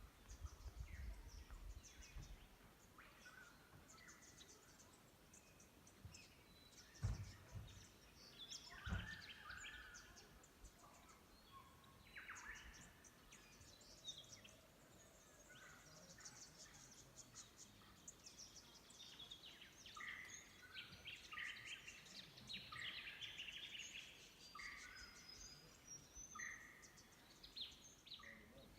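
Faint chorus of wild birds chirping and calling, several birds at once, busier toward the end. Two dull low thumps about seven and nine seconds in, with a low rumble at the start.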